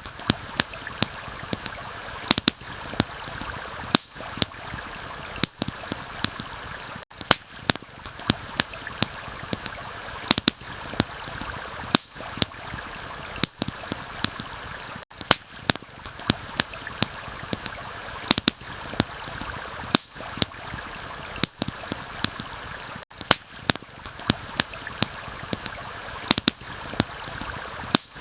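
Campfire crackling, with sharp, irregular snaps and pops over the steady rush of a stream.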